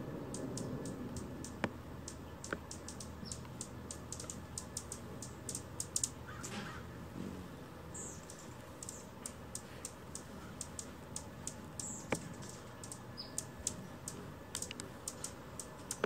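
Small birds calling: sharp, high ticking chips at an irregular pace, often several a second, with a few brief high chirps about eight and twelve seconds in.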